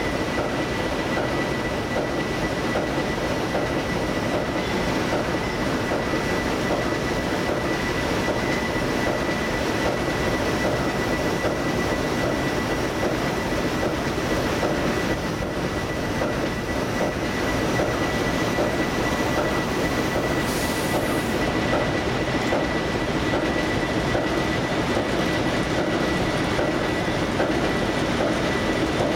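ALCO S-2 and EMD SW-10 diesel switcher locomotives idling, a steady diesel rumble with a thin, steady high whine over it. A short hiss comes in about two-thirds of the way through.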